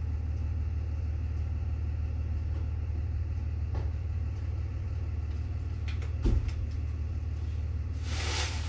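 Steady low rumble of a running vehicle, with a single knock about six seconds in and a short burst of hiss near the end.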